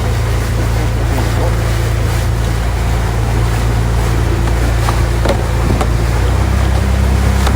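Motorboat engine running steadily under way, with wind and water rushing past; the engine note shifts up and grows a little louder about six seconds in.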